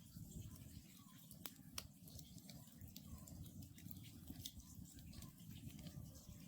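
Wood campfire crackling quietly, with irregular sharp pops and a low steady rumble. A distant Oriental scops owl gives faint short calls about every two seconds.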